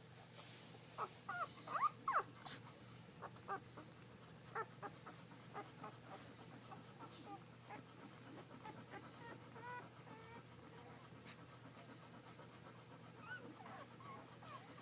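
Golden retriever puppies whimpering and squeaking in short, high whines. There is a cluster of louder squeals between one and two and a half seconds in, then softer scattered whines.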